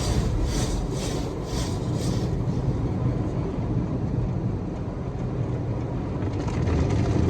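Automatic car wash equipment working over the car, heard from inside the cabin: a steady low rumble, with hissing sweeps about twice a second over the first two seconds.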